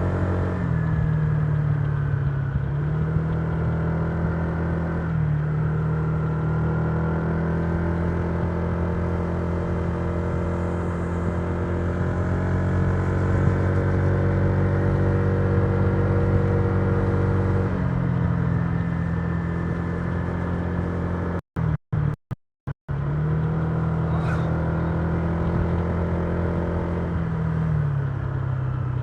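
Honda Giorno 125 scooter's single-cylinder four-stroke engine running under way, its pitch stepping up and down several times as the throttle changes. The sound cuts out briefly several times a little past the middle.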